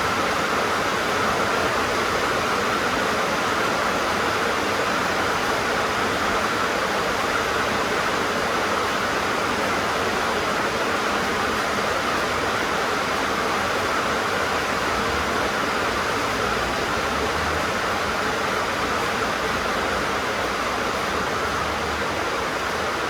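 Steady rain falling on a tin roof, an even hiss with no breaks.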